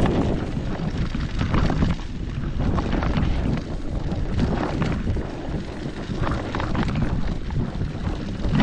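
Wind buffeting the microphone in a loud, uneven rumble, with scattered irregular crunches and knocks.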